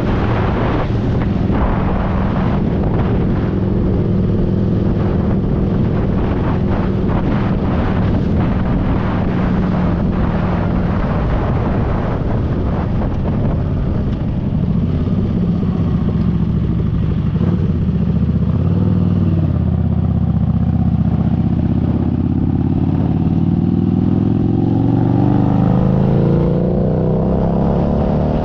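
Motorcycle engine running under way, with wind buffeting the microphone in the first half. About halfway through the engine drops low, then its pitch climbs steadily as the bike accelerates toward the end.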